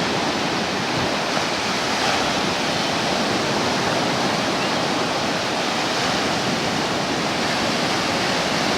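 Rough ocean surf breaking and washing up the beach: a steady, unbroken rush of water.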